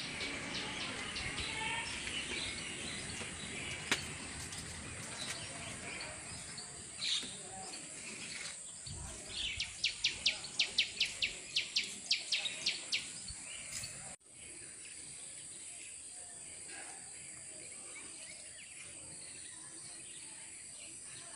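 Birds calling in garden trees over a steady outdoor background. Near the middle comes a quick run of about a dozen sharp, evenly repeated call notes, roughly three a second. About fourteen seconds in the background level drops suddenly.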